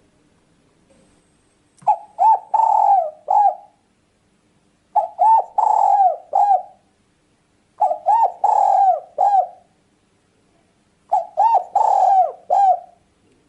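Spotted dove (tekukur) cooing: four repeated phrases of several coo notes each, one about every three seconds.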